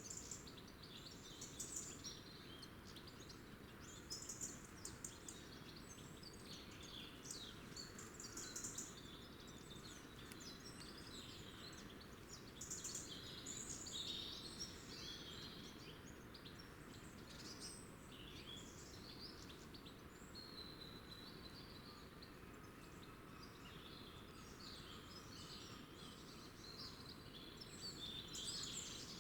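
Faint chirping of several small wild birds, short calls following one another throughout, over a steady low background rumble.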